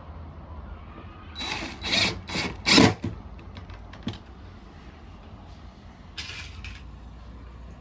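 A power drill driving screws in several short bursts, the loudest near three seconds in, with another short pair about six seconds in.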